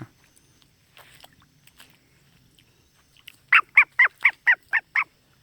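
A pet starling calling: a quick run of about seven loud, harsh, honking calls at about four a second, a little past the middle.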